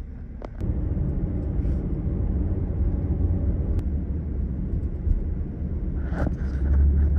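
Steady low road and engine rumble inside a moving SUV's cabin.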